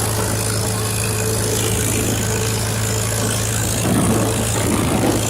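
1951 Farmall H tractor's four-cylinder gasoline engine running steadily under way on the road, with a short louder surge about four seconds in and again near the end.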